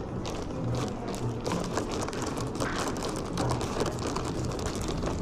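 Close-up crunching and chewing of a crispy pressed banh mi, a rapid irregular crackle of the toasted baguette crust.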